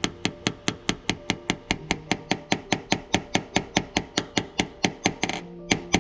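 Paintless dent repair tap-down: a hammer tapping a knockdown tool on a vehicle's sheet-metal panel to level high spots. The taps are quick and sharp, about five a second, with a brief break near the end before a few more.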